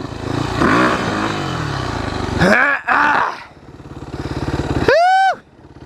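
Yamaha WR400 dirt bike's single-cylinder four-stroke engine running, blipped up and back down twice. Near the end comes a short, loud, high-pitched squeal that rises and falls.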